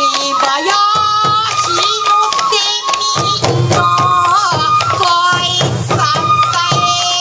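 Sansa Odori festival music: a bamboo flute holds and shifts a high melody line while voices sing over it, with drum strokes throughout.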